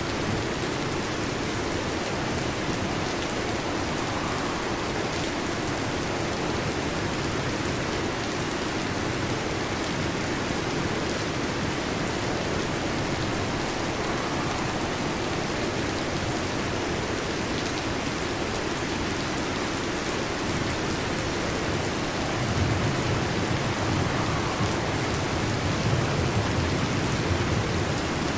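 Heavy rain falling steadily on a metal roof. A low rumble of thunder comes in during the last several seconds.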